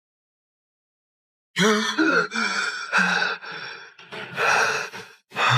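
Dead silence for about a second and a half, then a man gasping for breath in about six hard, breathy gasps, as on jolting awake from a nightmare.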